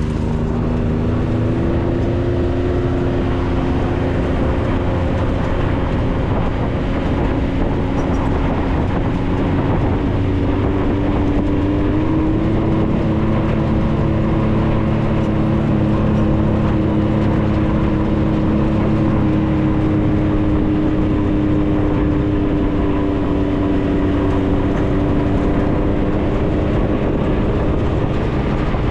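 Maverick 4x4's engine running steadily as it drives along a trail. Its pitch creeps up slowly over the first dozen seconds and then holds level, with a steady rush of tyre and wind noise underneath.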